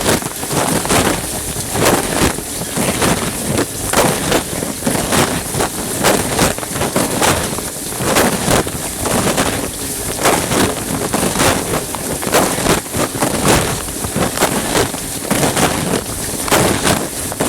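Dishwasher running, heard from inside: water jets spraying and splashing irregularly against the plastic bag around the recording phone.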